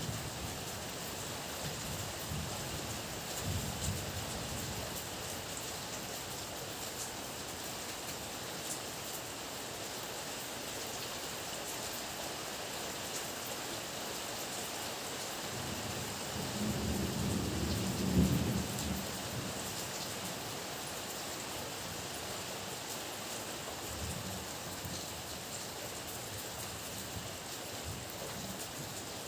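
Steady heavy rain with thunder rumbling: a small rumble a few seconds in, a longer, louder roll a little past halfway, and a fainter rumble after it.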